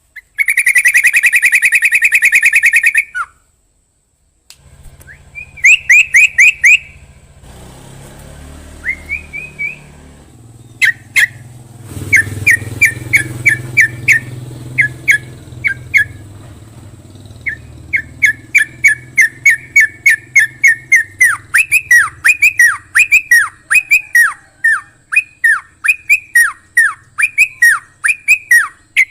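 Yellow-vented bulbul (trucukan) singing. It opens with a loud, rapid trill for about three seconds, then gives scattered chirps. Later it settles into a long run of short notes, many dropping sharply in pitch, about two a second.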